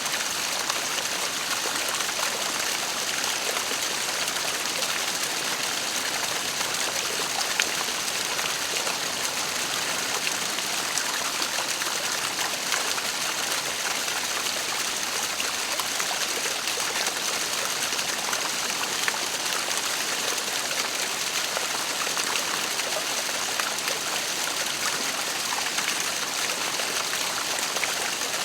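Waterfall: a steady rush of falling water with small splashes throughout.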